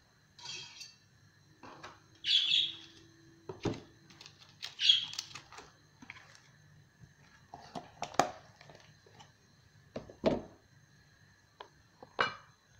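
A small bird chirps in short bursts a few times, the loudest about five seconds in. Several sharp knocks and clicks of kitchen utensils against a metal pot come in between.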